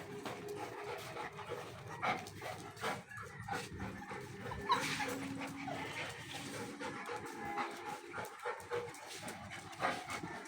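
Golden retriever puppies whimpering and giving small yips, in short irregular bursts.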